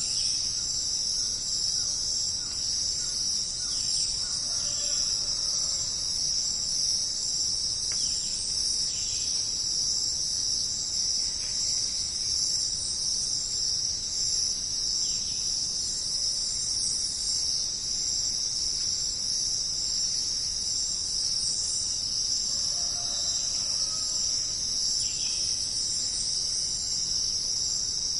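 Dense, steady chorus of crickets chirping, with faint bird calls now and then.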